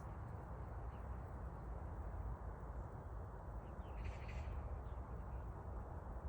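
Oriental magpie giving a short, harsh chattering call about four seconds in, with a few fainter calls around it, over a steady low rumble.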